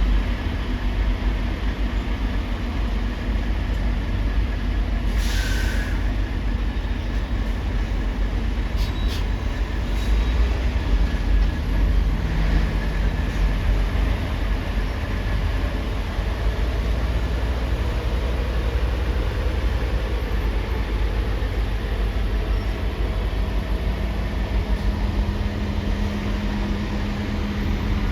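Heavy vehicle engines running with a steady low rumble, with a short air-brake-like hiss about five seconds in and a few light clicks a few seconds later.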